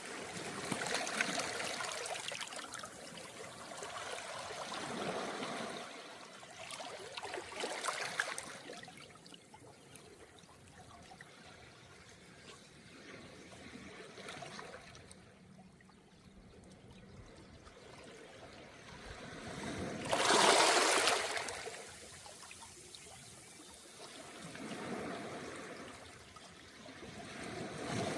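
Small, calm waves washing in and draining back over a round-pebble beach, coming in uneven swells every few seconds. The biggest wash comes about two-thirds of the way through, after a quieter lull.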